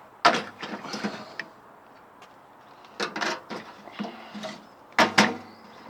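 Knocking and clattering as a partly stripped microwave and its parts are handled, in three loud bouts: about a third of a second in, near three seconds, and near five seconds.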